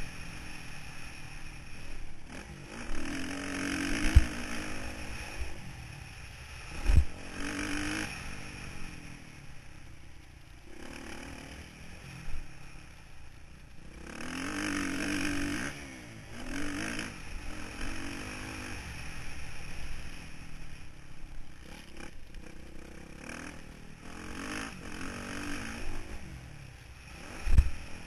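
Motocross bike engine heard from an onboard camera, repeatedly revving up and dropping back as it rides the track, over a steady rush of wind and dirt noise. A few sharp loud thumps come about 4 and 7 seconds in and near the end.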